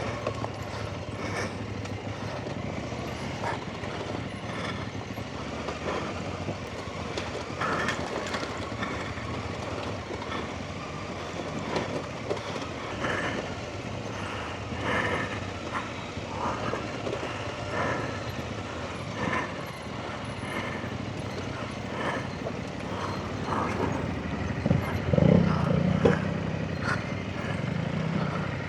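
Off-road motorcycle engine running at low revs while riding a rough, washed-out lane, with frequent knocks and rattles from the bike over the ground. The engine gets louder for a moment about 25 seconds in.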